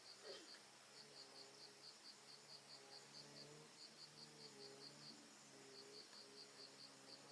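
Faint insect chirping, likely a cricket: short high chirps at about five a second in long runs with brief pauses. Faint low, wavering tones sound underneath.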